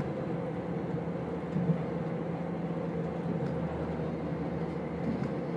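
Passenger train running, heard from inside the carriage: a steady rumble with a low drone and hum, and one brief knock about a second and a half in.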